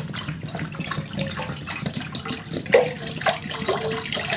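Water pouring and splashing into a cooking pot, a steady rush with gurgling.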